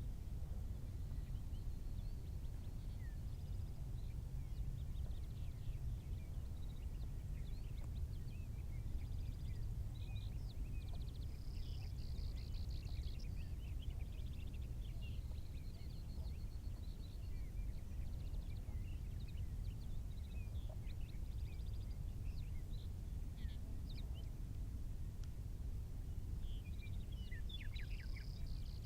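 Many birds chirping and trilling over a steady low outdoor rumble.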